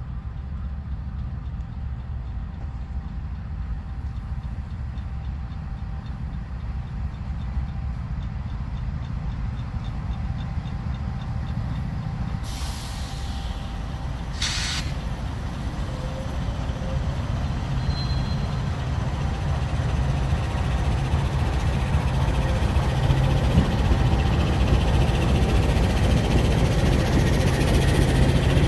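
Diesel freight locomotives, GE Dash 9s, running with a low engine rumble that grows steadily louder. About twelve seconds in comes a short hiss of air, and two seconds later a sharp burst of air from the brakes.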